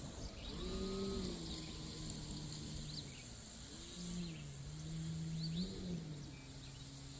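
Electric motor and propeller of a 3DHS Extra 330 SC radio-controlled aerobatic plane in flight, a faint hum whose pitch rises and falls several times as the throttle changes.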